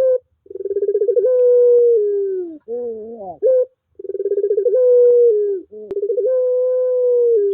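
Puter pelung dove cooing in repeated phrases. Each phrase opens with a quick stutter that runs into a long, drawn-out coo, and is followed by short rising, bending notes.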